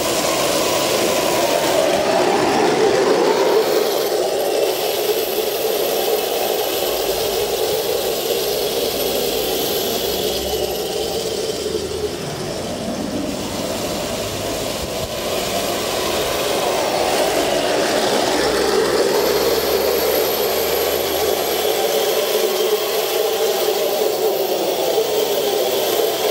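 The electric drive motors and transmission of an RC Leopard tank running with a continuous mechanical whine. The pitch rises and falls as its speed changes.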